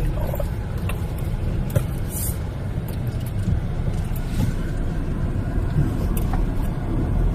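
Car driving along, a steady low engine and road rumble heard from inside the cabin, with a few light knocks.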